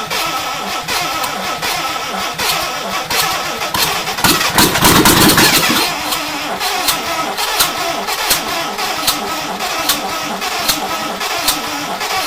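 Marcos GT's 3-litre V6 cranking on its starter, wired straight to a battery through a flick switch with no fuel going in and the engine full of oil. About four seconds in there is a louder stretch of about two seconds as it fires and starts to run.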